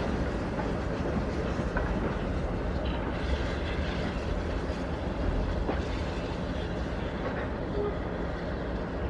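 Train running on the line: a steady rumble with a few faint clicks from the wheels and track, easing off slightly near the end.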